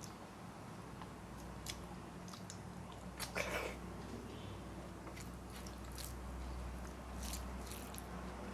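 A person eating close to the microphone: chewing and biting with scattered small crunches and wet clicks. The loudest crunch comes about three seconds in.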